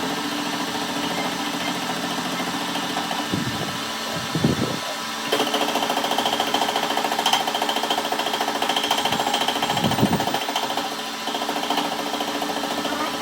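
Workshop machine running with a steady hum. From about five seconds in until about ten seconds a louder, rough, rhythmic working sound is added, then it drops back to the hum.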